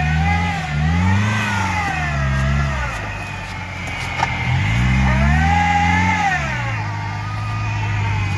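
Off-road car engine revving up and easing off twice, then holding a steady lower speed. There is a single sharp click about four seconds in.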